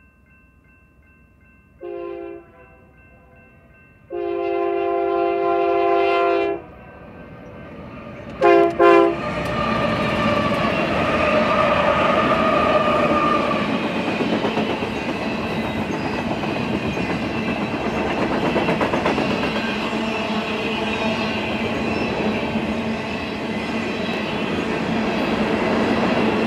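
Union Pacific freight locomotive horn sounding for a grade crossing: a short blast, a long blast, then two quick short blasts. About nine seconds in, the locomotives and a long string of freight cars pass close by, with wheels rumbling and clicking over the rails.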